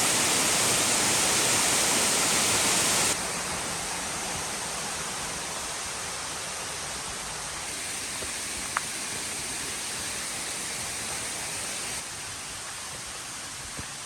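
Steady rush of a mountain stream flowing beside a forest trail. It is loud for the first three seconds, then cuts abruptly to a quieter level, with another step down near the end and a single faint click about nine seconds in.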